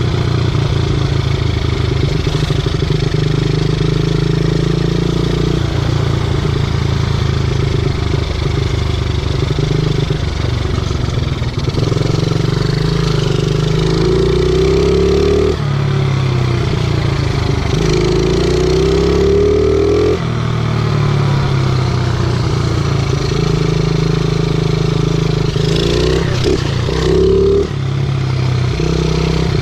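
50cc pit bike engine running while being ridden, its pitch rising and falling again and again with the throttle and gear changes.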